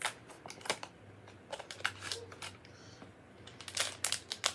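Blind-box pin packaging being handled and opened, giving irregular sharp clicks and crackles, with a quicker run of clicks near the end.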